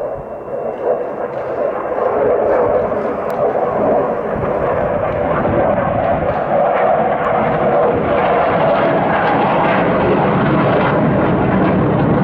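Military fighter jet flying low overhead: a loud jet roar that builds over the first two seconds, then holds steady.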